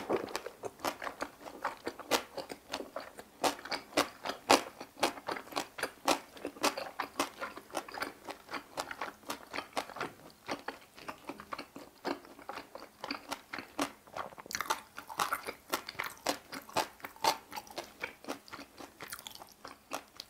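Close-miked chewing of napa cabbage kimchi with boiled pork belly (bossam): a steady run of crisp, wet crunches, several a second.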